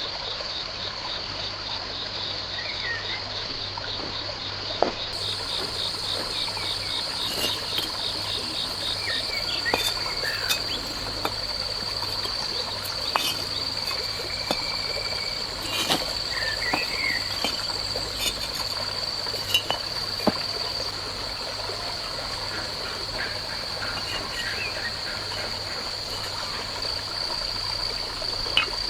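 Steady high-pitched insect trill, with a fast pulsing call beneath it for the first several seconds. Scattered sharp clicks and a few short bird chirps come over it.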